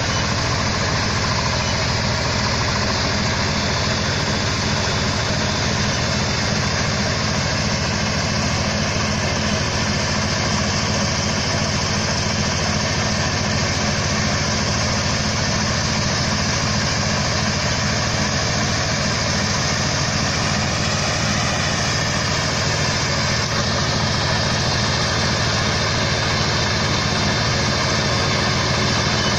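Mini combine harvester's engine running steadily at a constant speed, an even drone that does not rise or fall.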